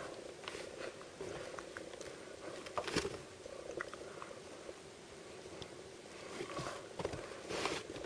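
Handling of blind-bag packaging: scattered small rustles and clicks, with louder crinkles about three seconds in and again near the end, over a steady low hum.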